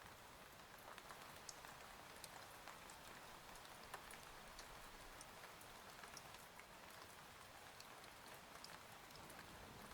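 Faint steady rain, with scattered drops ticking through it.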